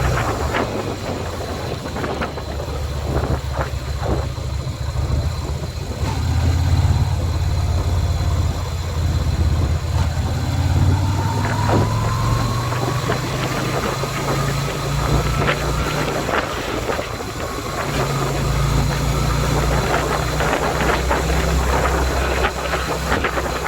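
Yamaha Virago 250's air-cooled V-twin engine running under way, its note shifting a couple of times with throttle or gear, with wind noise on the microphone.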